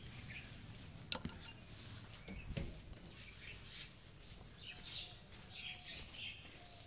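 Birds chirping faintly in short scattered calls over low background noise, broken by a couple of sharp clicks about a second in and a dull thump a little later.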